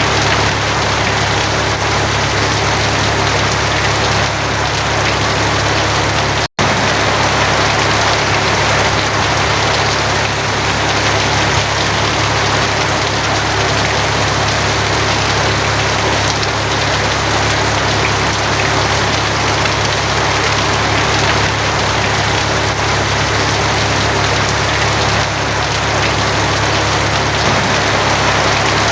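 Heavy rain falling steadily on a tin roof, a dense even patter, over a steady low hum. The sound cuts out completely for an instant about six and a half seconds in.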